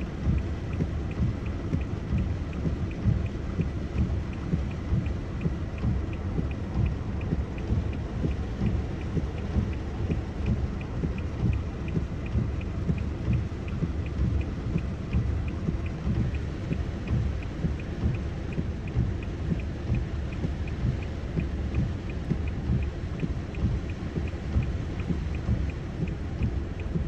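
Heavy rain with a constant low rumble, and a faint regular ticking about twice a second.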